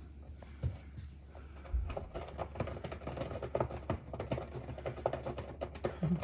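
A cat sharpening its claws after waking, rapid raking scratches that begin about two seconds in, with a soft thump just before.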